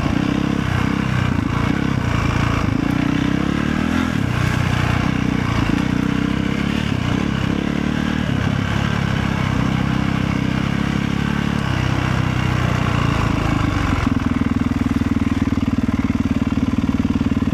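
Motorcycle engine running, its revs rising and falling, then settling to a steady, even note about fourteen seconds in.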